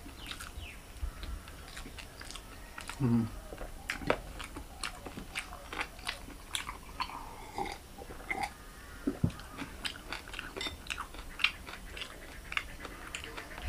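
Close-up chewing and lip-smacking of a person eating rice with pork curry by hand: a run of many irregular short wet clicks.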